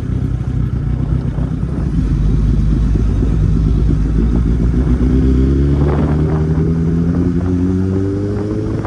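Kawasaki Z800's inline-four engine running as the bike rides along, steady at first, then its pitch climbing slowly and evenly through the second half as the bike accelerates.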